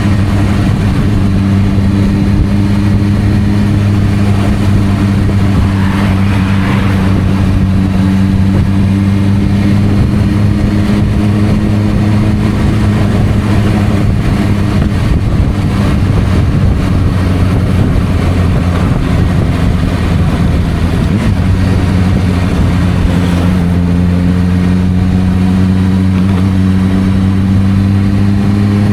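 Suzuki GSR600's inline-four engine through an aftermarket Dominator exhaust, running at steady, moderate revs while riding. The pitch dips a little about two-thirds in and climbs again near the end.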